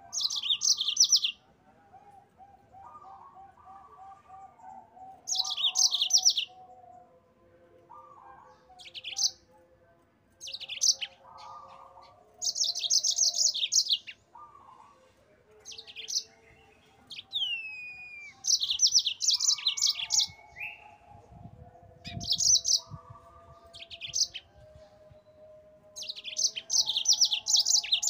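Yellow-fronted (Mozambique) canary singing in short bursts of fast, high trills, repeated every one to three seconds, with a falling whistle about two-thirds of the way through. Fainter, lower-pitched calls run underneath.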